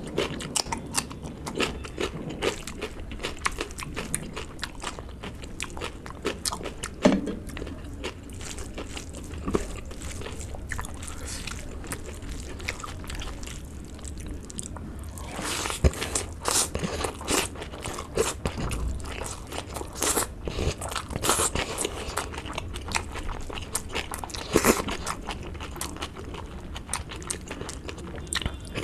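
Close-miked chewing and biting of food, a dense run of wet crackly mouth clicks with crunchy bites; a raw green chilli is bitten into near the start. The chewing grows louder for a few stretches in the second half.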